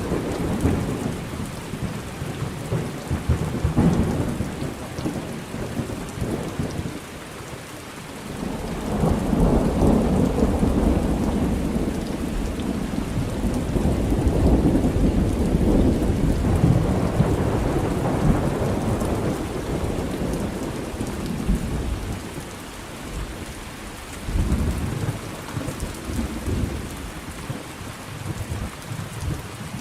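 Thunder rumbling again and again over steady rain: a swell near the start, another about four seconds in, a long rumble from about nine to twenty seconds in, and a shorter one near the end.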